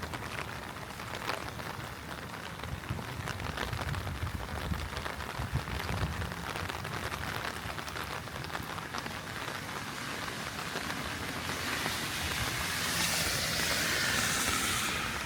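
Heavy rain falling, with many sharp drop ticks close to the microphone. About three-quarters of the way through, a louder rushing hiss builds up and then cuts off near the end.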